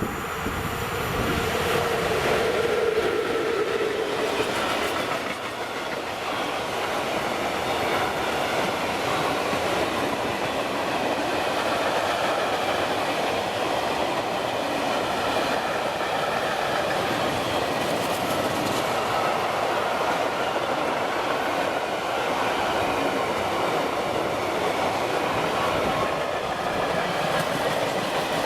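A train passing close by at speed, its wheels clattering steadily over the rails.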